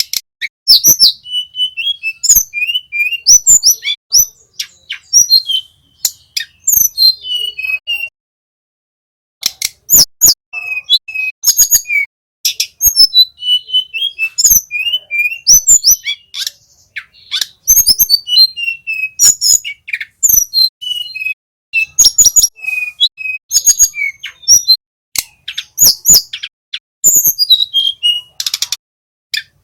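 Tledekan gunung, a small flycatcher, singing fast, high chirping phrases with sliding notes, mixed with sharp clicking notes. It pauses for about a second roughly a third of the way in.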